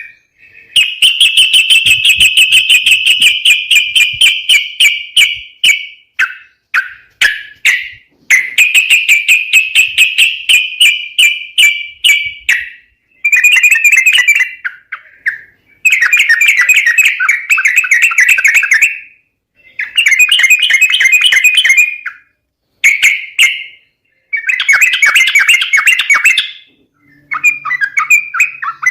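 Yellow-vented bulbul (trucuk) calls used as a bird lure: fast, loud chattering phrases of one to several seconds each, separated by short pauses.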